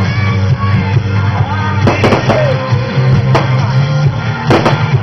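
Fireworks going off in several sharp bangs, a pair about two seconds in, one more near three and a half seconds and another pair near the end, over continuous loud music.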